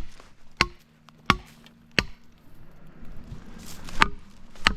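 Axe blows striking wood: four heavy strikes roughly two-thirds of a second apart, a pause of about two seconds, then two more.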